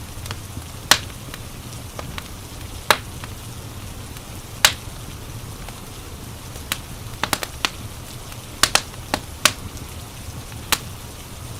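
Wood fire crackling in a fireplace: sharp, irregular pops, about a dozen of them, some in quick pairs, over a steady low rumble and soft hiss.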